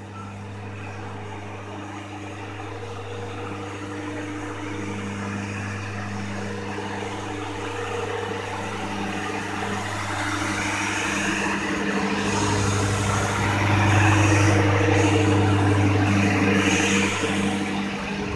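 Indonesian passenger train rolling slowly past, its steel wheels running on the rails under a steady diesel engine hum. It grows louder as the coaches come closer, with a faint high squeal near the end.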